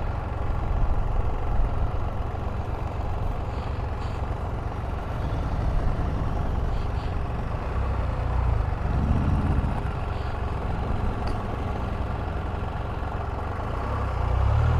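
Can-Am Spyder RT three-wheeled motorcycle on the move, its engine running steadily under a steady rushing haze. The engine note rises briefly about nine seconds in and swells again near the end.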